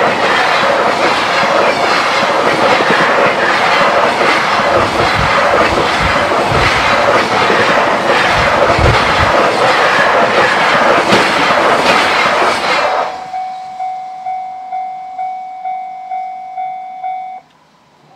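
Freight train of container flat wagons rolling past at speed, the wheels clattering over the rail joints, until the last wagon clears about thirteen seconds in. Then a level-crossing bell rings about three strokes a second and stops shortly before the end.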